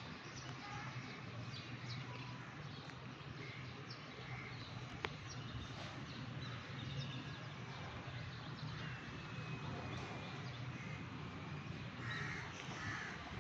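Birds calling outdoors in short, scattered calls over a steady low background hum, with one sharp click about five seconds in.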